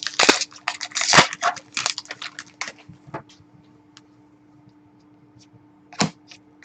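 Trading cards and their plastic wrappers being handled, with dense crinkling and rustling for the first three seconds, then a few scattered clicks and a short sharper rustle about six seconds in. A steady low electrical hum runs underneath.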